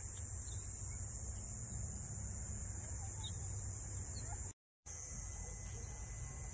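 Steady outdoor background noise, a low rumble under a high hiss, with a brief dropout to silence about four and a half seconds in.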